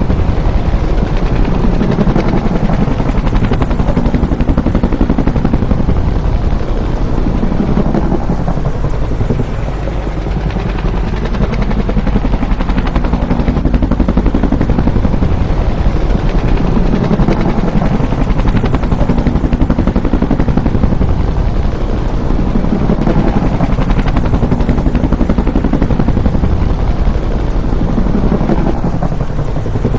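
Bell UH-1 Huey helicopter, its two-bladed main rotor chopping in rapid, steady beats over the turbine's noise. The sound is loud, swelling and easing slightly every few seconds.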